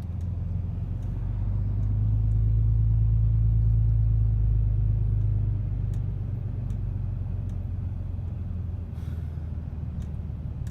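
Ram 2500 pickup's Cummins inline-six turbo diesel running steadily as heard from inside the cab, a low drone that grows louder for a few seconds about a second and a half in, then eases back.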